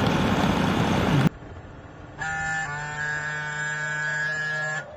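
Loud rushing wind and road noise of riding, cut off abruptly about a second in; then a vehicle horn sounds one long steady blast of about two and a half seconds.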